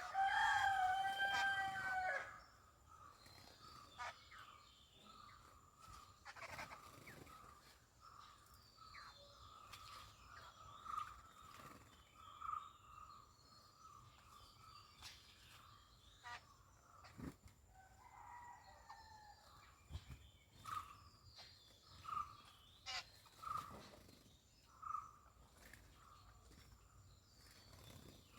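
A rooster crows once at the start, one loud call of about two seconds. A steady, pulsing background hum follows, with scattered short chirps of small birds.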